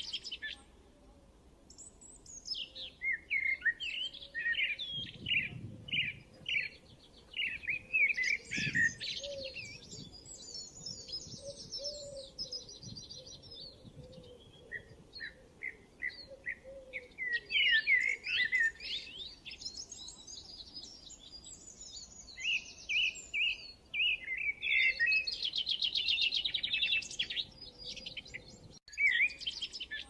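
Songbirds chirping and singing: runs of short, quick chirps and fast trills, several voices overlapping, with brief lulls in between.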